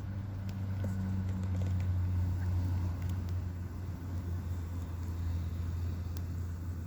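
Campfire crackling with scattered sharp pops over a steady low hum.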